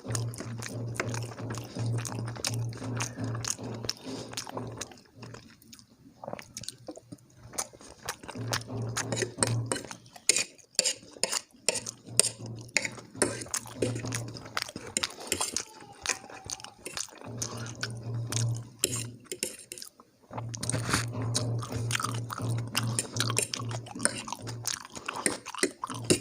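Close-miked chewing and wet mouth clicks of someone eating, in bouts of steady chewing with brief pauses between mouthfuls.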